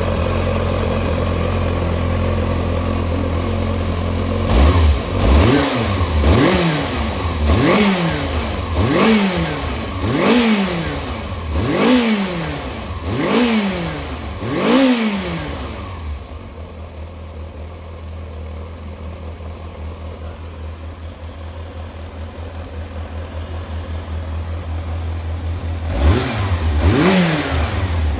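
Yamaha XJR400 inline-four engine idling, then blipped repeatedly, with quick rev rises and falls about every second and a half, before settling back to idle and blipping again near the end. The seller states it runs well with no abnormal noise.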